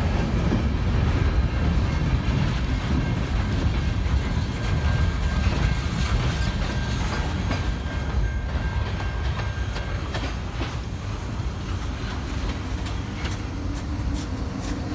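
A CN freight train's cars, the last of them tank cars, rolling past over the rails with wheel clatter, growing fainter as the end of the train moves away.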